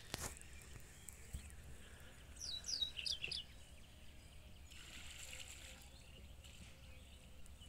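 Faint riverside ambience with a small bird giving a quick series of high, downward-sweeping chirps about two to three seconds in.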